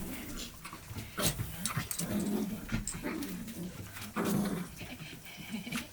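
A dog making several short, low vocal sounds that bend in pitch, among scattered light clicks and knocks.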